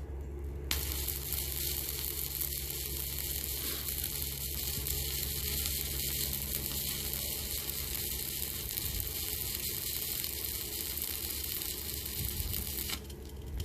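Stick-welding arc sizzling steadily as a bead is laid on steel angle iron with a welding rod. It strikes up about a second in and stops shortly before the end.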